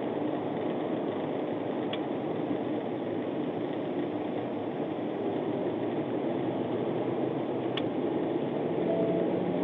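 Steady running noise of a police patrol car's engine and road noise, even in level throughout, with a couple of faint ticks.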